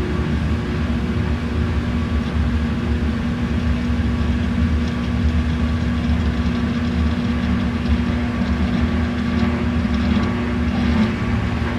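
Old-style washing machine running, a steady motor hum over a low rumble.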